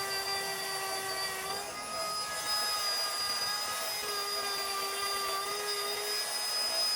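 A small high-speed motor running with a steady whine over a hiss, its pitch shifting slightly twice.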